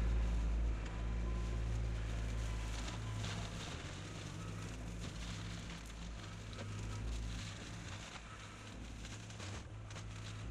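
Kubota L3200 tractor's diesel engine running steadily, loudest in the first three seconds, with crackling and snapping over it.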